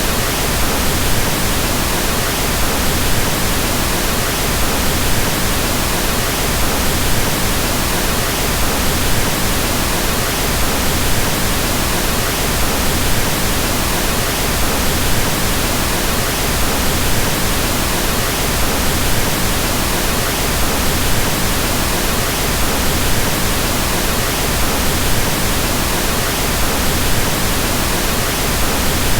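Pink noise: a steady, unbroken hiss spread evenly across all pitches, of the kind used to mask sounds for sleep.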